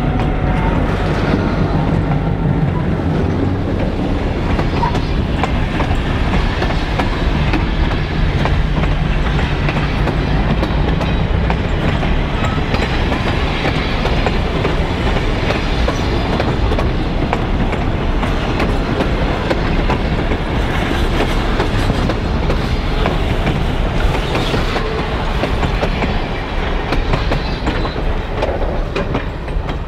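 Diesel-hauled freight train passing at close range. The locomotive's engine hum fades in the first few seconds of the pass, then the steel wheels of the freight cars and a coach keep rolling and clacking over the rails.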